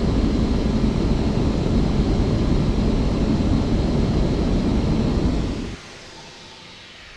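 Airbus A318 airliner noise: a loud, steady, deep rumble that cuts off abruptly about six seconds in, leaving a much quieter hiss.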